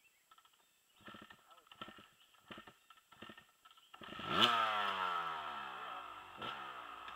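Dirt bike engine revving up sharply about four seconds in, then its pitch falling slowly as it fades. A few short knocks come before it.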